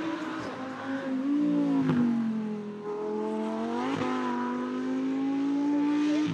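Supercar engine revving under load, its note climbing and falling, with brief sharp breaks about two and four seconds in and a steady high note held after the second.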